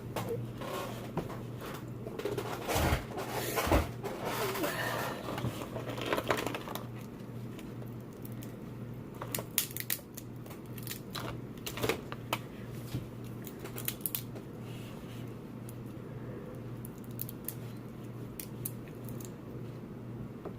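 Seafood shells being cracked and pulled apart by hand: scattered sharp clicks and crackles, thickest in the first few seconds, then sparser, over a steady low hum.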